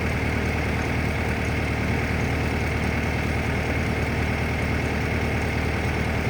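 An engine idling steadily, with an even, unbroken drone.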